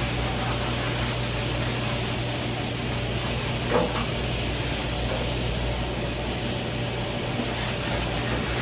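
Steady hiss of road and engine noise from a moving vehicle, with one short knock about four seconds in.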